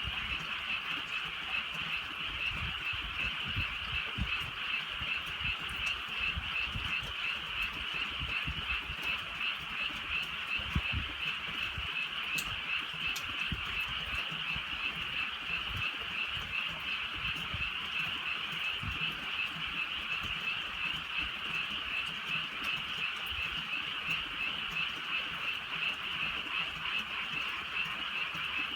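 Dense chorus of many frogs calling without pause, a continuous fast-pulsing trill. Light drizzle adds scattered soft low thuds underneath.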